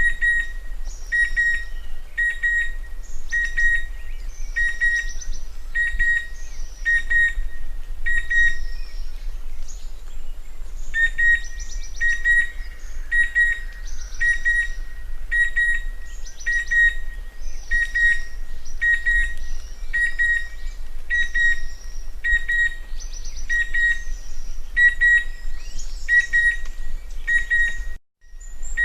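Chestnut-winged cuckoo calling: a steady series of short whistled notes, all on one pitch, about one and a half a second. The notes pause for a couple of seconds about a third of the way through, then go on.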